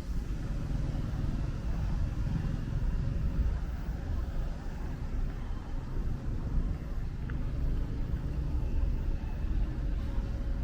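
Steady low rumble of city traffic, with one short high chirp about seven seconds in.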